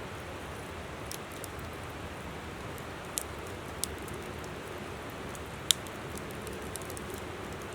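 Wood campfire crackling, with several sharp pops, the loudest late on, over the steady rush of a flowing river.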